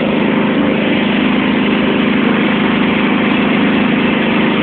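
John Deere 325 lawn tractor engine running steadily at an even pace.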